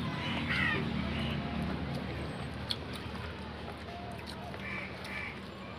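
A crow cawing a few times against a low background murmur, with one sharp click a little under three seconds in.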